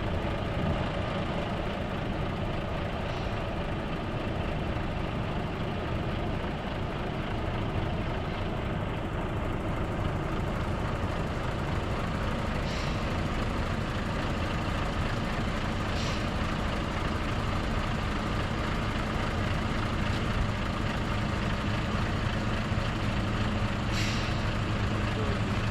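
Heavy truck's diesel engine idling steadily, with a few short hisses of released air at scattered moments.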